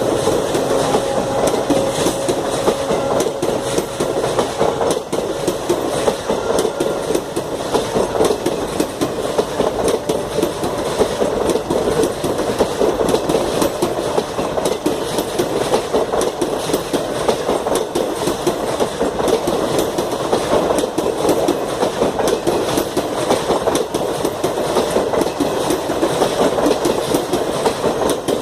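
Passenger train passing close at speed: a steady rush of coaches with rapid clickety-clack of wheels over the rail joints. A steady tone fades out over the first few seconds.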